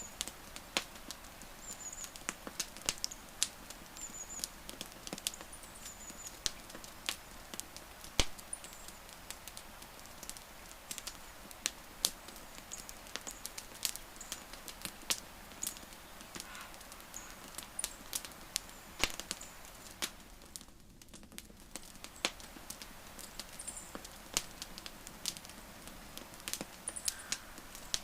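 Wood campfire crackling: irregular sharp pops and snaps over a faint steady hiss, with a few brief high chirps now and then.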